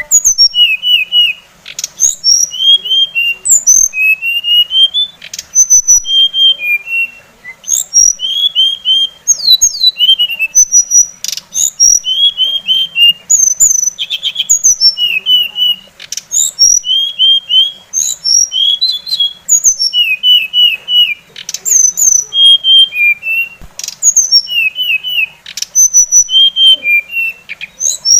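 Songbird singing continuously: quick runs of short chirping notes, often in threes, repeated in phrases about every second, with sharp high notes between them.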